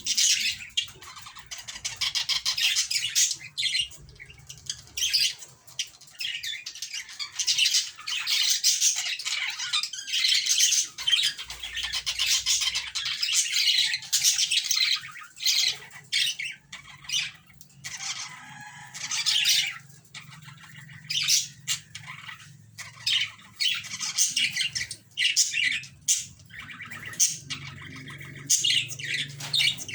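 Budgerigars chattering and squawking in fast, scratchy runs of calls, broken by short pauses.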